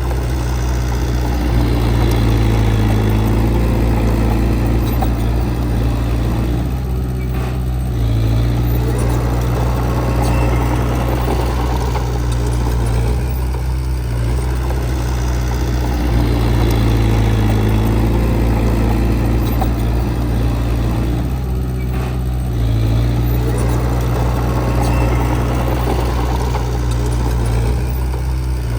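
Heavy diesel engine of earthmoving machinery running steadily, its note swelling and easing in a repeating cycle about every seven to eight seconds.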